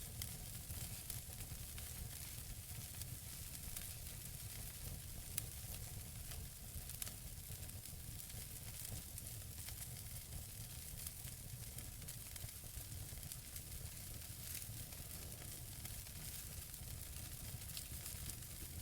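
Wood logs burning in a fireplace: a steady hiss of flame with frequent small crackles and two sharper pops, about five and seven seconds in.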